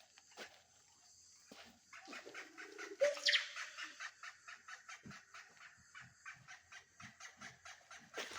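Birds calling, a quick run of short chirps with one louder, sharper call about three seconds in.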